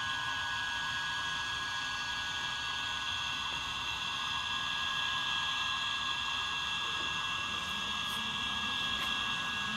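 Sound decoder in an HO-scale model of the Jawn Henry steam-turbine locomotive, playing its steam turbine sound through the model's small speaker: a steady hiss with a constant high whine.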